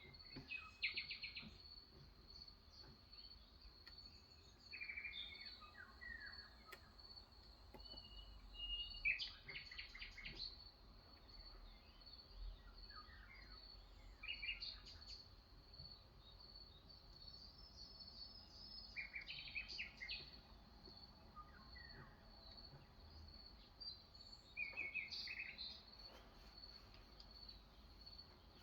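Faint songbirds chirping in short bouts every few seconds, over a steady high-pitched tone.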